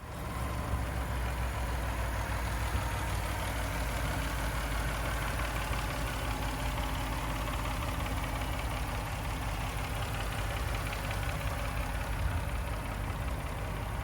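2018 Ford F-150's 3.5-litre EcoBoost V6 idling steadily.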